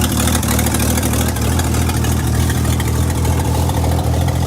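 A 1960 Ford F100's original 223 cubic-inch inline-six idling steadily just after a cold start in freezing weather, run with its air cleaner removed.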